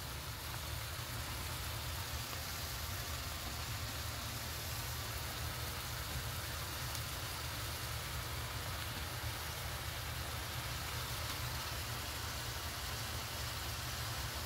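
Diced onion, celery and bell peppers sizzling steadily in a saucepan, over a constant low hum.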